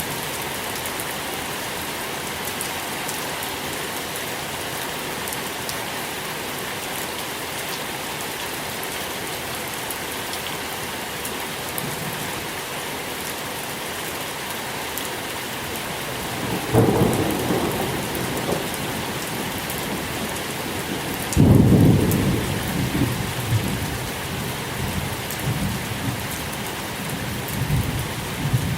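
Steady rain falling, with thunder breaking in the second half: a first rumble about 17 seconds in, then a louder crack about 21 seconds in that rolls on, fading, to the end.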